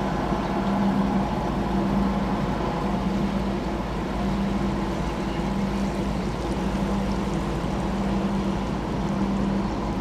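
A vessel's engine droning steadily with a low hum, over an even wash of water and wind noise.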